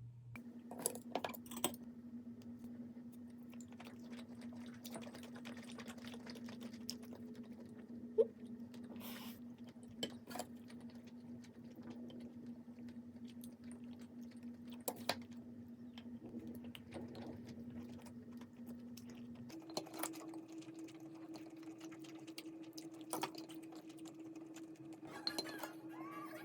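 Scattered light clicks and clinks of kitchenware over a steady appliance hum. The hum shifts abruptly to a higher pitch about twenty seconds in.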